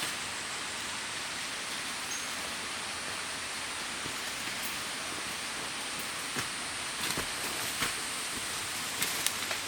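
Steady outdoor hiss, with a few short cracks and clicks in the second half.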